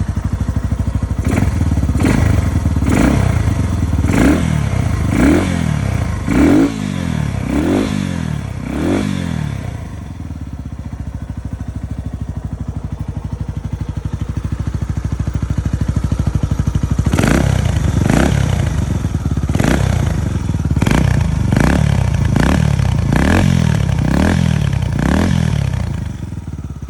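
Yamaha TW200's single-cylinder four-stroke engine revved in short throttle blips about once a second, each rising and falling back. It settles to a steady idle for several seconds in the middle, then is blipped again.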